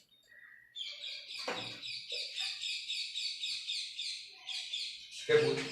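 A small bird chirping in a quick, even series of high notes, with a louder knock near the end.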